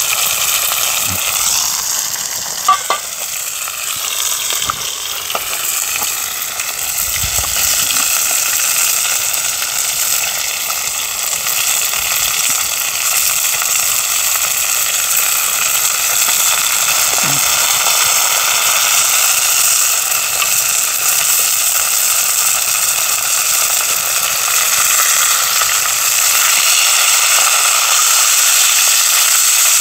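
Battered pieces of semi-dried sea bass frying in hot oil in a pan, with a steady, loud sizzle. There is one short sharp click about three seconds in.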